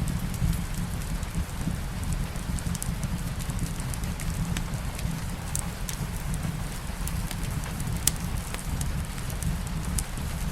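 Steady soft rain with a wood fire crackling: sharp pops and snaps scattered through, the sharpest about 8 seconds in, over a steady low rumble.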